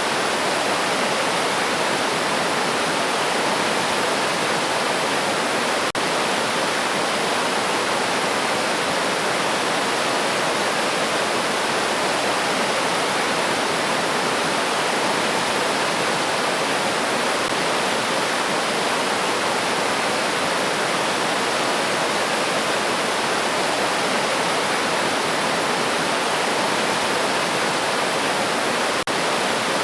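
River stream rushing steadily, an even, unbroken wash of flowing water.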